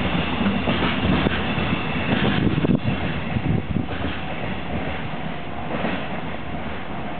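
Freight train wagons rolling past, steel wheels clacking over the rail joints and the cars rattling; the sound is loudest for the first three seconds, then eases into a quieter, smoother rolling noise.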